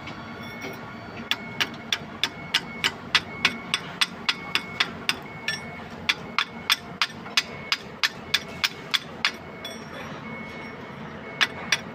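Hammer striking metal in a quick, even rhythm, about three sharp strikes a second. It pauses for about two seconds near the end, then starts again.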